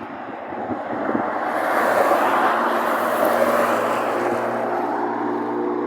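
Car going by: a rushing engine and road noise swells to its loudest about two seconds in, then settles into a steady engine hum.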